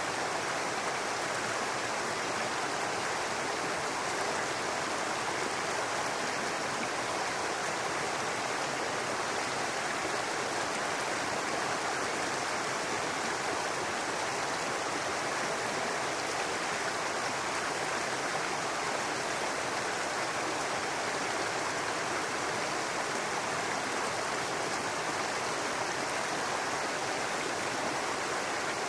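Small brook running over rocks, a steady babbling rush of water.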